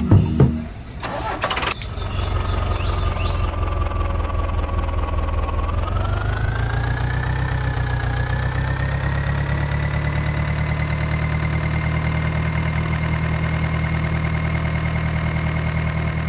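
Small electric motor of a homemade model tractor running steadily with a thin whine, after a few clicks at the start. The whine rises in pitch about six seconds in, as the motor speeds up, and then holds level.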